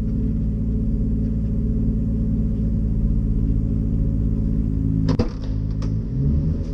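A car engine idling with a steady low drone. About five seconds in there is a sharp clunk, the drone's pitch wavers, and a few light clicks follow.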